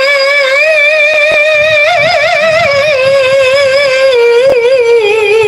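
A woman's voice holding one long, ornamented note of melodic Quran recitation (tilawah), wavering with vibrato, with quick melismatic turns about two seconds in and a few small steps down in pitch toward the end.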